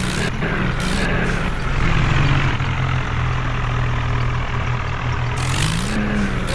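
Tractor engine running steadily under load, its pitch rising briefly and falling back near the end, with a few short bursts of hiss over it.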